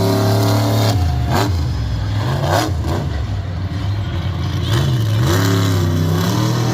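A big truck engine revving, its pitch dropping and climbing again several times as the throttle comes off and on, with a few sharp knocks.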